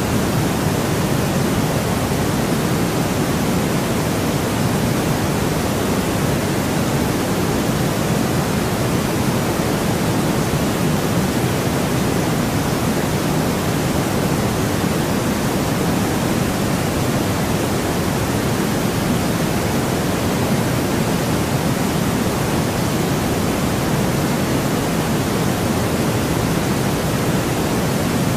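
Steady white noise for sleep: an even, unchanging hiss, fuller in the low and middle range than in the highs.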